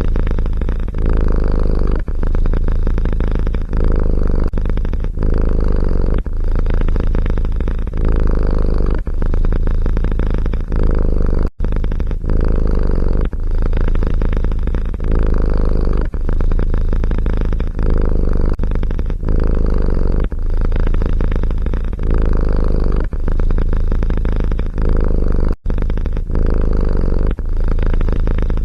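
Domestic cat purring close to the microphone, a steady low rumble that pauses briefly about once a second with each breath, with two short gaps where the sound cuts out.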